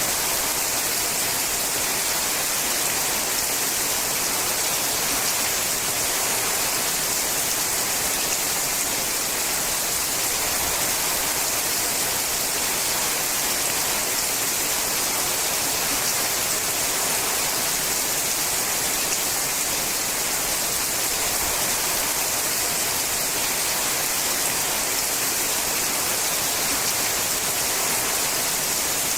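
Rain falling on a sheet-metal roof, a steady, even hiss with no breaks.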